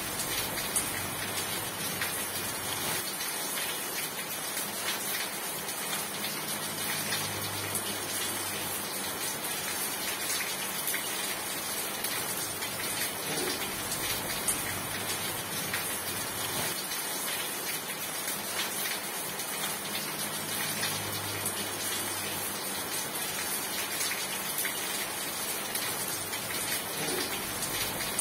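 Steady rain falling on a surface: an even hiss with scattered separate drop taps.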